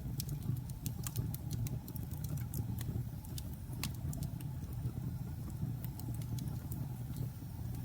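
Logs burning in a fireplace: a steady low rumble of the fire with frequent sharp crackles and pops, thicker in the first half and sparser later.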